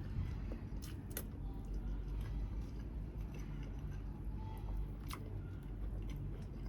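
Close-up mukbang eating sounds: chewing grilled chicken, with a few sharp clicks, two about a second in and one about five seconds in, over a steady low hum.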